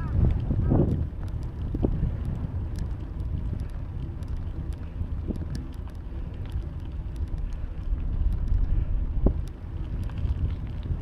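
Wind buffeting the microphone as a low, steady rumble while riding a bicycle, with scattered faint clicks.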